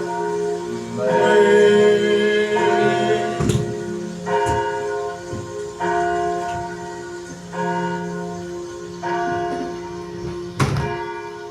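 Church bells tolling, a new strike about every second and a half, each ringing on and overlapping the last. A few sharp knocks sound in between.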